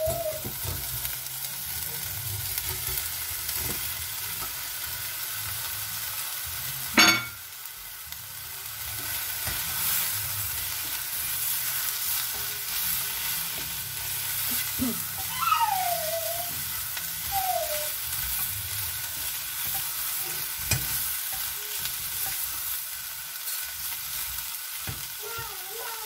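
Chopped roast pork sizzling in hot olive oil with sautéing seasonings in a stainless steel pot, stirred and scraped with a silicone spatula. A single sharp knock about seven seconds in.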